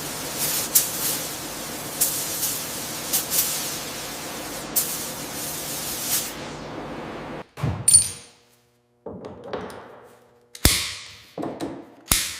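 A steady hiss of a compressed-air blast, like a sandblasting nozzle, with scattered clicks, which cuts off about seven seconds in. Several separate metal clanks and knocks follow.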